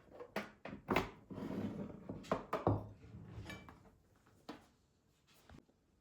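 Several knocks and thunks of objects being handled, with a short stretch of rustling between the louder ones about a second in and again near two and a half seconds.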